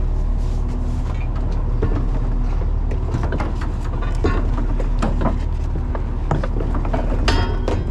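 Fishing boat's engine running steadily, with a string of sharp knocks and clanks from gear being handled on deck, thicker in the second half and loudest near the end, where one clank rings briefly.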